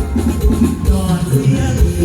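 Live Thai mor lam band music with a heavy bass beat and percussion.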